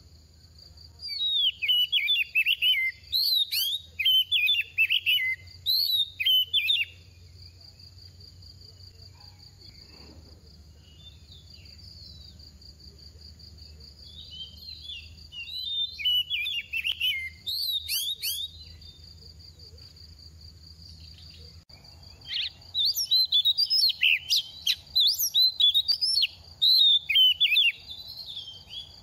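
Oriental magpie-robin singing in three bouts of quick, varied whistled phrases, with pauses between them. A steady insect trill, like a cricket's, runs underneath.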